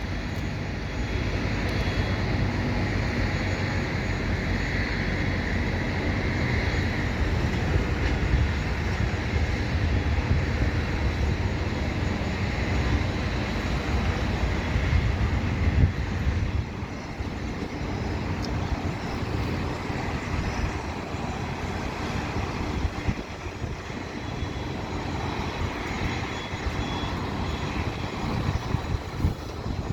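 Jet aircraft engines running steadily, with a heavy low rumble that eases about sixteen seconds in.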